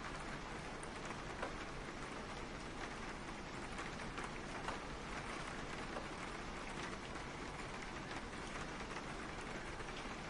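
Steady rain, a dense even hiss with many small sharp drop taps scattered through it.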